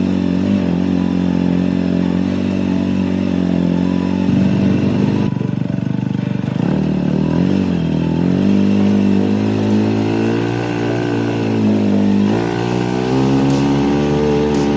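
Kubota L3560 tractor's diesel engine running under working load, its pitch sagging for a few seconds and recovering, then stepping up about twelve seconds in.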